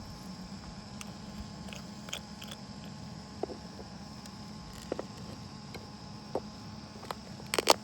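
Scattered sharp clicks and taps over a steady faint background hum, with two louder clicks close together near the end.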